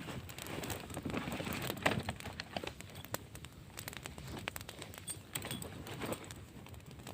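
Irregular crackling with scattered sharp clicks, denser in the first couple of seconds.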